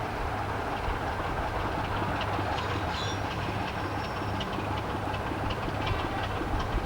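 Diesel train running on the line: a steady low rumble with scattered light clicks from the wheels on the rails.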